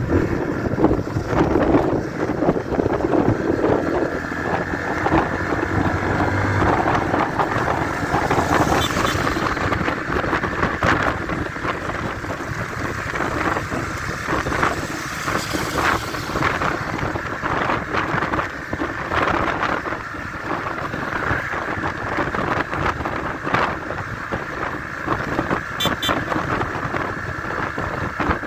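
Motorcycle engines running in a group ride, a steady dense sound with wind noise on the microphone.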